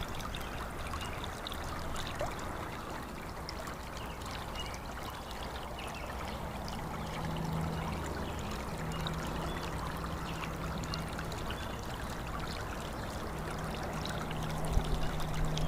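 Running stream or trickling water, a steady rushing wash, with faint short high chirps scattered through it. A low steady hum comes and goes from about halfway in.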